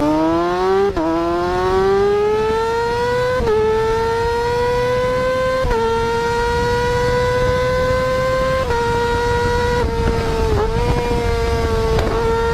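Yamaha R6 599cc inline-four sportbike accelerating hard through the gears, running at a high, screaming pitch. The pitch climbs steadily in each gear and dips briefly at each upshift, about one, three and a half, six and nine seconds in.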